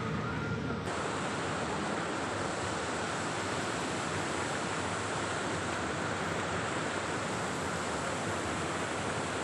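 Water pouring through a dam, a steady, even rush of falling water that sets in abruptly just under a second in.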